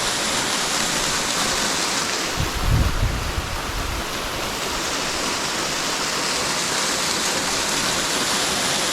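Waterfall rushing with a steady loud hiss of falling water. A brief low rumble breaks in about two and a half seconds in.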